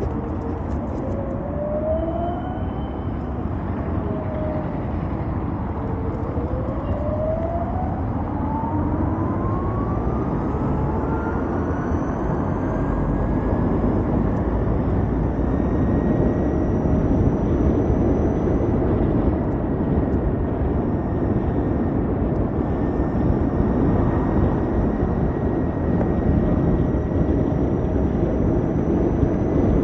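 Ather 450X electric scooter's motor whine while riding, over a steady low rush of wind and road noise. The whine dips about six seconds in as the scooter slows, then rises steadily for about ten seconds as it speeds up, and holds high.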